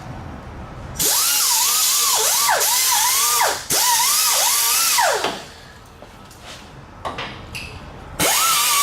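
Power drill running in bursts. Its whine wavers and sags in pitch as it loads up; it runs twice for a few seconds, stops, and starts again near the end.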